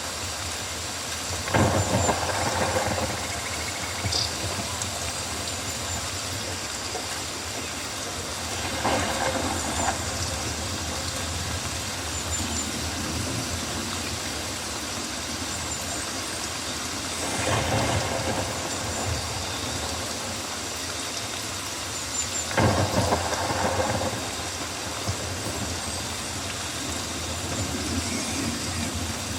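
Rainforest ambience: rain falling steadily, with four louder sounds of a second or two each rising out of it.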